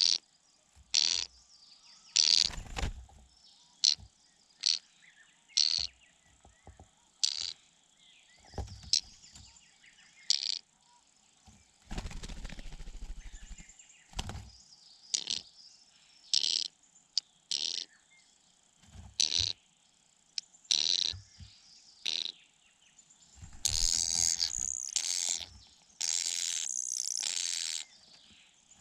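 Small birds giving short, high chirps, one about every second, with longer noisy stretches near the end.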